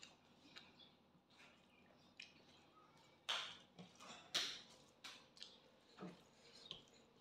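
Close-up eating sounds of a person eating rice and pork by hand. Faint clicks for the first few seconds, then a run of louder mouth smacks from chewing, about a second apart.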